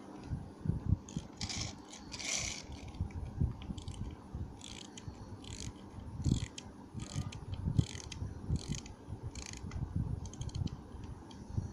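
A plastic toy speedboat being handled, its parts clicking and rattling in irregular short bursts, with low knocks and bumps.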